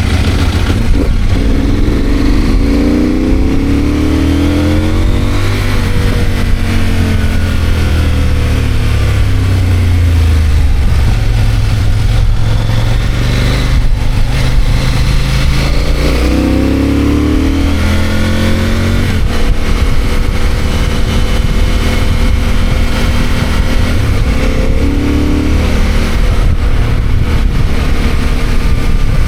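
CFMOTO 800MT's parallel-twin engine running under way. The engine note rises as it accelerates and falls as it slows, twice, then holds steadier near the end.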